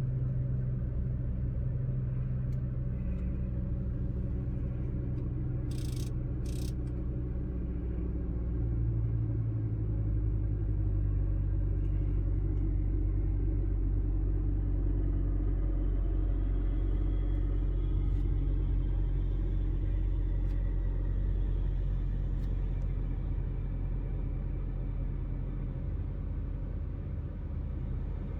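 BMW 335i's turbocharged inline-six running steadily after a cold start, its note stepping lower about nine seconds in. Two brief high-pitched ticks come about six seconds in.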